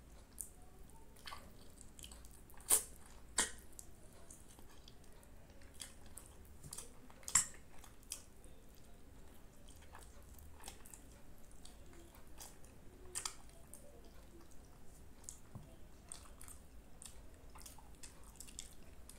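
Close-up chewing and wet mouth sounds of a person eating curry, rice and naan by hand: a steady run of short sharp clicks and smacks, with a few louder ones around three and seven seconds in.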